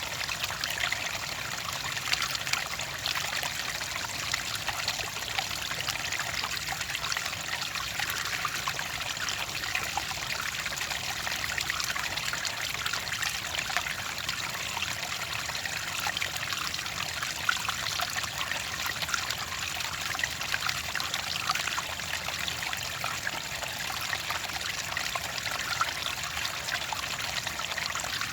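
Clear water trickling and splashing steadily, like a small stream running over stones, with a constant bright babble of small droplets.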